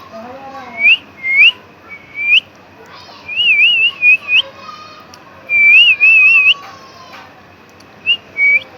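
A series of short, clear, high whistles, each ending in a quick upward flick, with two longer warbling runs in the middle.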